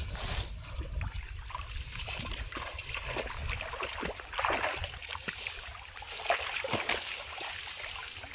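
Shallow water splashing and sloshing in irregular bursts as hands grope through a flooded paddy field for fish.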